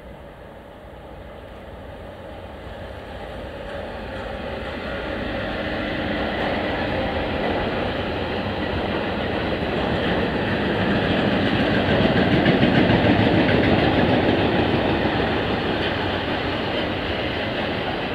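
A freight train, a red locomotive hauling empty double-deck car-carrier wagons, rolling past on the rails. The noise grows steadily louder as it approaches and peaks about two-thirds of the way through.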